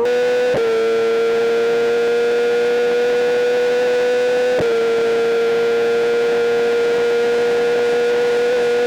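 Superbike's inline-four engine screaming at very high revs under hard acceleration. The pitch climbs slowly and drops sharply with an upshift about half a second in and again about halfway through.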